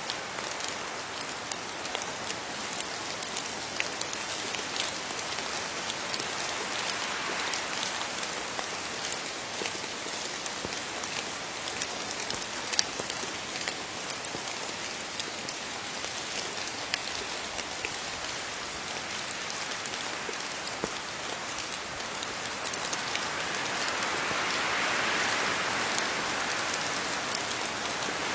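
Steady rain falling on leaves: a dense, even patter with many sharper single drop hits scattered through it. The rain swells louder in the last few seconds.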